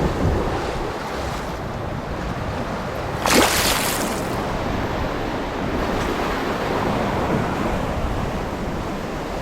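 Sea waves washing against the shore rocks, with wind on the microphone. About three seconds in, a louder hiss of surge lasts about a second.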